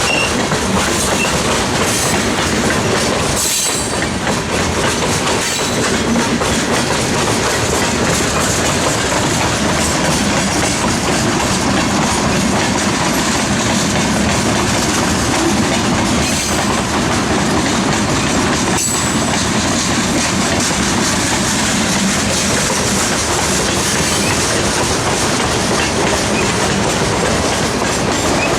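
Freight train cars rolling steadily past close by, wheels clacking over rail joints in a continuous loud rumble.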